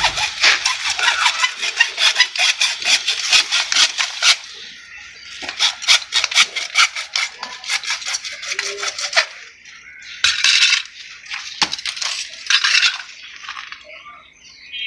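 Rapid scraping strokes from a hand tool, in several bursts a few seconds long with short pauses between.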